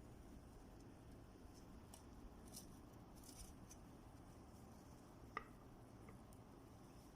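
Near silence: room tone with a few faint ticks and one brief soft click about five seconds in.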